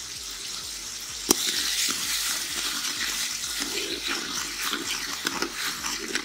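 Small onions, tomatoes and crushed ginger-garlic frying in oil in an aluminium pot, sizzling and crackling as a ladle stirs them. A single sharp knock about a second in, after which the sizzling is louder.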